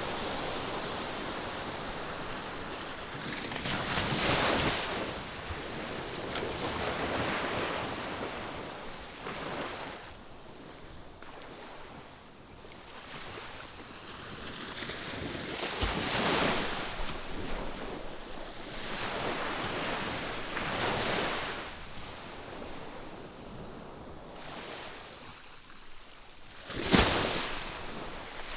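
Ocean waves breaking on the shore, the surf swelling and easing every few seconds, with some wind on the microphone. A brief, much louder rush of noise comes near the end.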